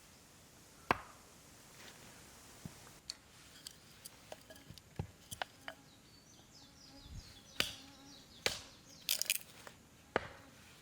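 Irregular sharp knocks and clicks, about a dozen, coming closer together near the end, over faint insect-like chirping.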